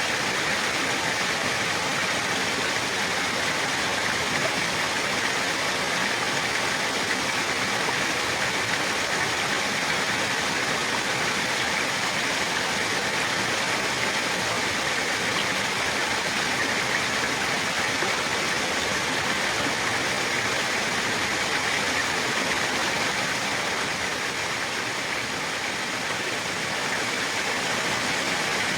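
Running water rushing steadily, an even unbroken wash strongest in the middle-high range, easing off slightly for a few seconds near the end.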